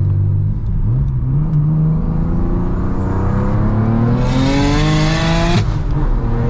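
Single-turbo BMW N54 straight-six, heard from inside the cabin, pulling hard through a gear. The revs jump about a second in, then climb steadily while a loud rushing hiss from the turbo builds. The pull cuts off sharply at an upshift about five and a half seconds in, and the engine note starts climbing again in the next gear.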